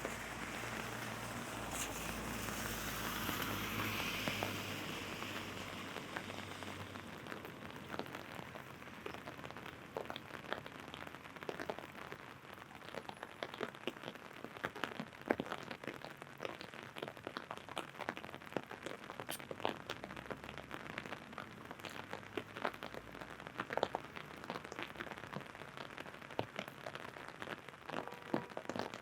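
Rain falling on an umbrella: a steady hiss with many irregular drops striking the canopy. A broad rushing hiss swells over the first few seconds and fades away.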